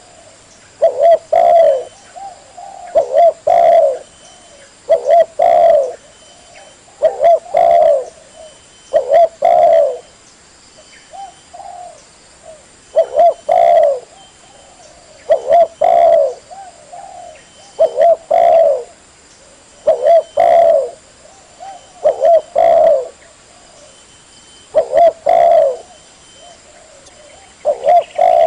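Spotted dove (tekukur) cooing: a short phrase of a few coos, repeated about every two seconds.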